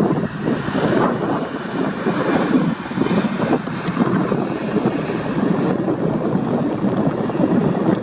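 Airbus A310-304 jet airliner with twin GE CF6-80C2 turbofan engines, heard as a steady rushing engine noise while it comes in to land.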